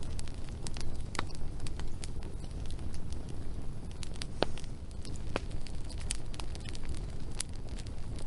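Wood fire burning, with irregular sharp crackles and pops from the burning wood over a steady low rush of the flames.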